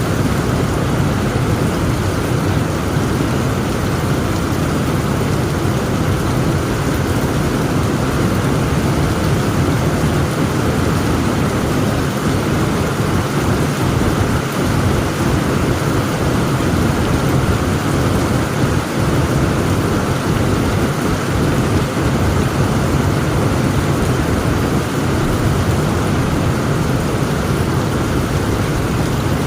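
Heavy rain in a thunderstorm, falling steadily, with a continuous low rumble under the hiss and no distinct thunderclap.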